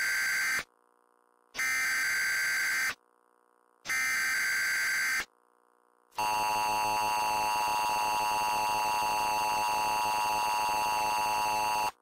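Emergency Alert System tones: the end of one SAME header data burst and two more identical bursts of rapid warbling digital tones, then about six seconds in the steady two-tone EAS attention signal, held for about six seconds and then cut off.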